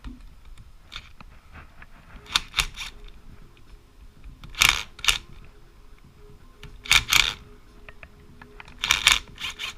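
Sharp metallic clicks from a hand tool working the engine's sump cover bolts loose, in short clusters of two or three about every two seconds.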